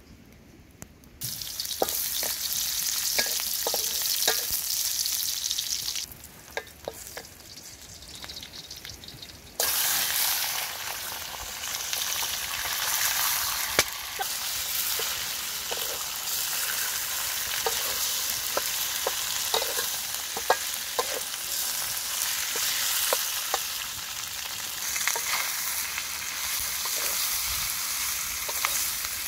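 Catfish pieces sizzling as they fry in a metal wok, with short knocks and scrapes of a wooden spatula stirring them against the pan. The sizzle starts about a second in, drops back for a few seconds, then returns louder and holds steady.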